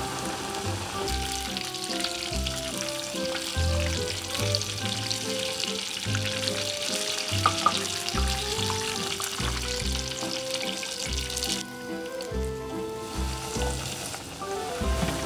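Breaded chicken fillets deep-frying in hot oil in a pan: a dense, steady sizzle that dips briefly about three-quarters of the way through, with two short clicks near the middle. Background music plays underneath.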